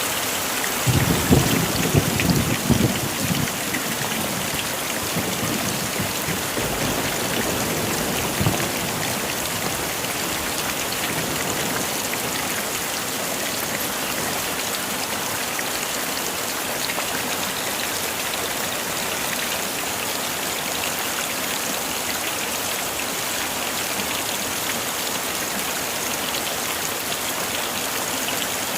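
Heavy rain falling steadily, with a low rumble of thunder starting about a second in and dying away within a couple of seconds.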